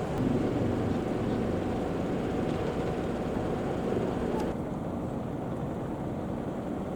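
Steady street background noise with a low rumble of vehicles. About four and a half seconds in it changes abruptly to a duller sound.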